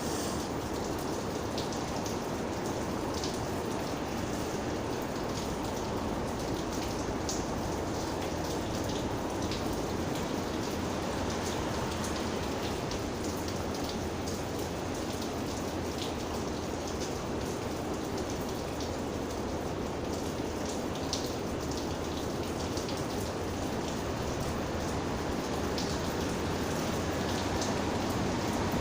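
Steady rain falling: an even hiss with scattered sharp ticks of individual raindrops.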